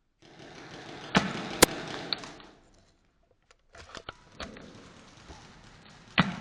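Airsoft guns firing single shots, heard as sharp cracks: a pair about a second in, smaller ones near the middle and another pair near the end, over rustling movement noise.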